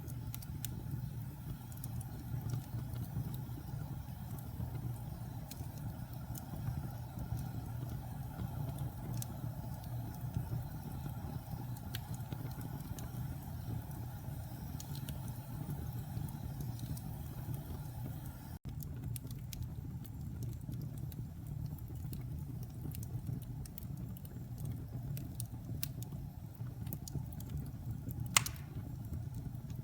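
Wood fire in a fireplace burning, with a steady low rumble of flames and scattered crackles throughout, and one sharp pop near the end.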